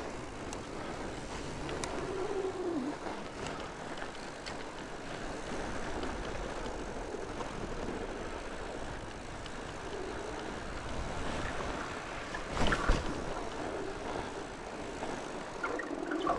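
Fat bike riding along a mountain-bike trail: a steady rushing of tyre and wind noise, broken by a few light clicks and a louder knock from the bike about three-quarters of the way through, with another near the end.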